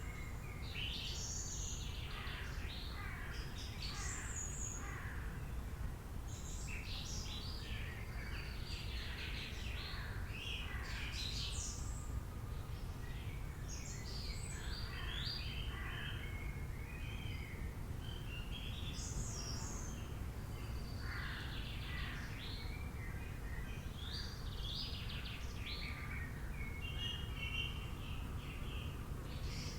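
Several wild birds calling and chirping at once, a busy run of short, quickly sweeping calls, over a steady low background rumble.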